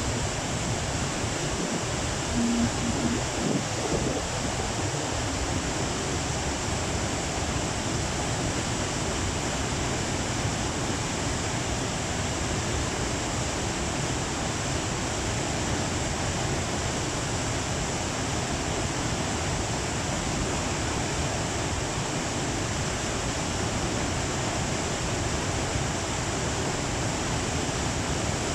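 Rushing water of the Tama River swollen with floodwater after a typhoon, a steady, even roar of fast current.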